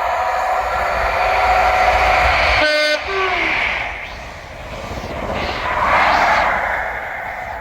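ScotRail HST with Class 43 power cars passing through the station. The leading power car's diesel engine is loud for the first few seconds, with a brief sharp tone and a falling pitch as it goes by about three seconds in. The carriages rumble past and a second swell comes around six seconds in as the rear power car passes.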